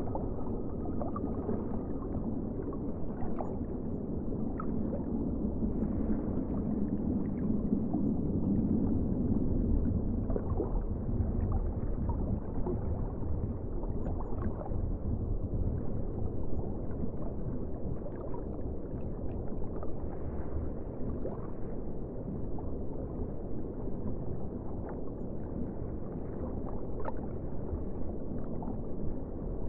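Muffled, steady ocean water sound: a low rumble with scattered small clicks and gurgles, swelling slightly a few seconds in.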